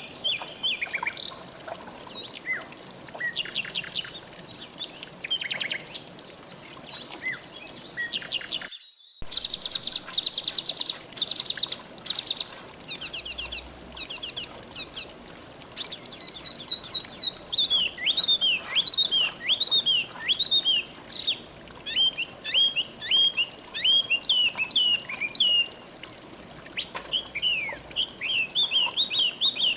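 Several songbirds chirping and singing over a faint steady rush of flowing water. The sound drops out briefly about nine seconds in. After that come loud rapid chirp series, then many repeated short down-slurred notes.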